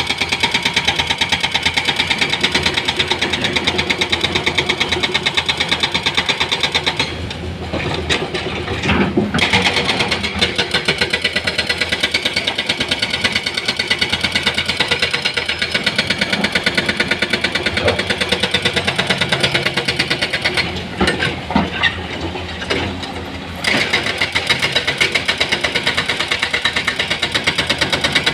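Heavy diesel engine of an excavator or dump truck running, with a fast, even chugging pulse. Twice it eases off for a few seconds, about a third of the way in and again past two-thirds, with a few sharp knocks while it is lower.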